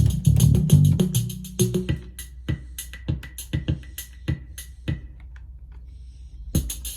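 Drum-machine beat from the Roland Micro Cube Bass RX's built-in rhythm box, with bass guitar notes through the amp for the first second and a half. The beat then runs on alone and thins out, with a short pause carrying only a low amp hum, before beat and bass start again near the end.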